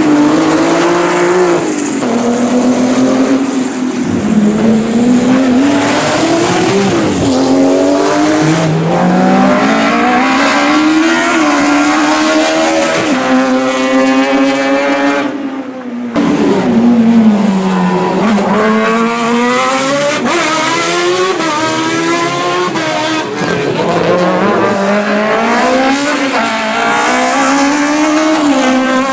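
Racing car engine driven at full throttle, its pitch climbing through each gear and dropping at the shifts and lifts, over and over. About halfway through the sound breaks off abruptly and the revving picks up again.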